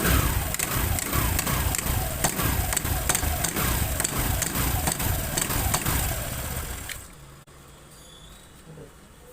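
TVS Jupiter 125 BS6 scooter's single-cylinder engine running, with a ringing note that falls in pitch and repeats about twice a second. This is the abnormal bell-like noise the mechanic traces to a worn bush inside the clutch. The engine stops about seven seconds in.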